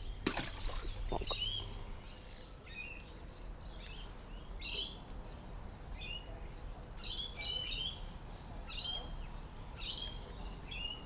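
Small birds chirping repeatedly, short bursts of high notes about once a second, over a low outdoor rumble. A brief knock sounds just after the start.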